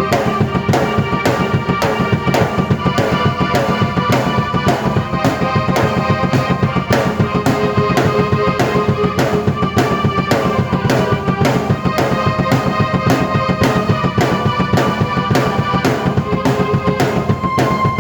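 Drum kit and keyboard played together by one player: a fast, steady beat on the drums, bass drum included, under held keyboard chords and melody.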